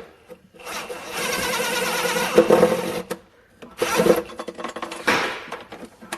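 Tool work mounting a fuel pressure regulator bracket to the firewall: three bursts of steady mechanical noise, the first lasting about two seconds, the other two short and close together near the middle.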